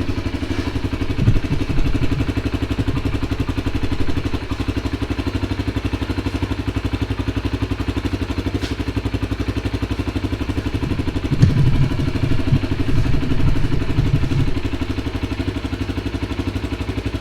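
Kawasaki Brute Force ATV engine idling steadily through an aftermarket carbon-fibre muffler. A few brief, louder low bursts come about a second in and again from about eleven to fourteen seconds in.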